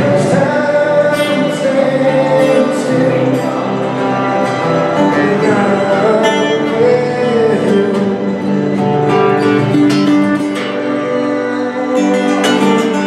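Music with a guitar played throughout, plucked and strummed, and a melody gliding over it.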